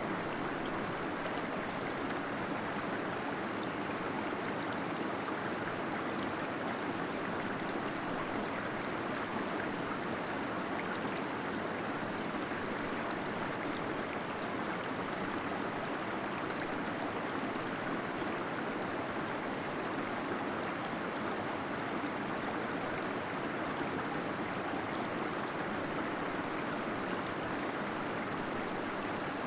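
Waterfall splashing inside a cave, a steady rushing and gurgling of flowing water with no breaks.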